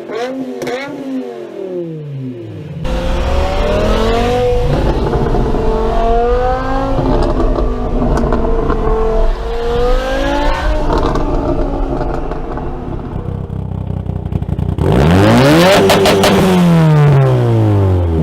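Straight-piped car exhausts: an engine revved in quick blips. Then another car accelerates hard through several gears, its pitch climbing and dropping at each shift. Near the end a very loud car passes close by, its pitch rising as it approaches and falling steeply as it goes away.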